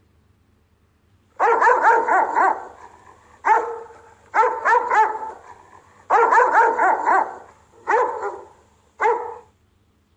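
Rottweiler barking as a guard dog. The barks come in six quick runs of one to several barks, with short pauses between, starting about a second and a half in and stopping shortly before the end.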